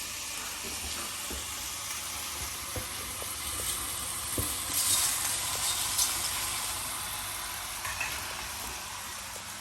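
Chicken and onions sizzling in olive oil in a saucepan as the pre-cooked pasta is tipped in and stirred, with a few light knocks against the pan. The sizzling flares louder about four to six seconds in.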